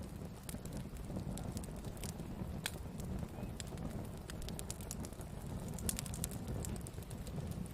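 Wood campfire burning: a steady low rumble of flame with irregular sharp crackles and pops from the burning wood.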